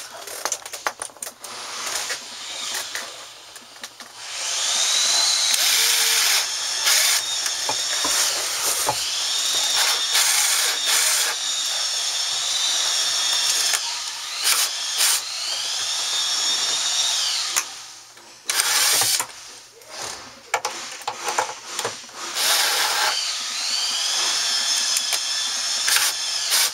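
Cordless screw gun with a square bit driving screws in several runs of a few seconds each, its motor whine rising, holding and dropping off each time, with clicks between the runs.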